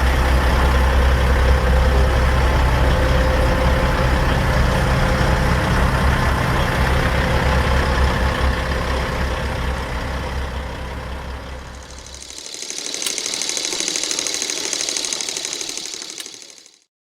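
Heavy diesel engine of a Kenworth W900L semi truck running with a deep steady rumble, which fades away over the last few seconds of its run. Then a hissing sound with a fine rapid flutter lasts about four seconds and cuts off suddenly.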